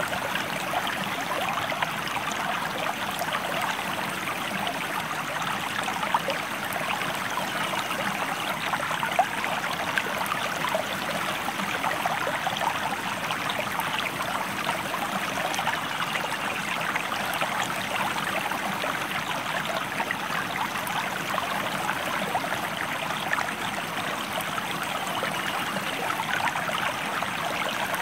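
A river or stream flowing steadily: a constant rush of water with many small splashes and trickles.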